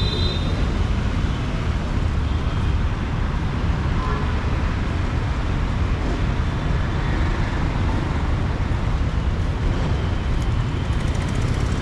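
Steady city road traffic noise: a continuous low rumble of passing vehicles, with no single event standing out.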